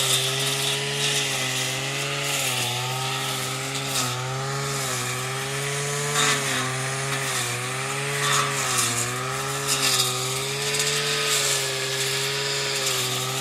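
Robin two-stroke brush cutter engine running steadily, its pitch wavering slightly up and down. Several brief hissing swishes are heard over it.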